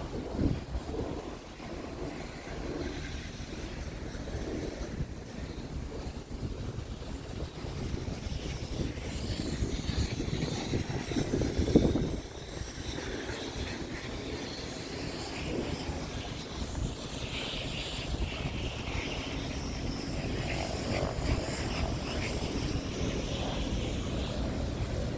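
Scania P truck's diesel engine running steadily, with wind buffeting the microphone and a brief louder thump about halfway through.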